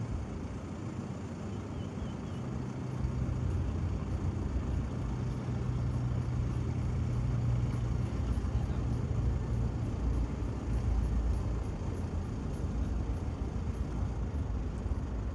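Airbus A330 jet airliner passing on its landing approach: a low rumble that swells from about three seconds in, is loudest in the middle and eases toward the end.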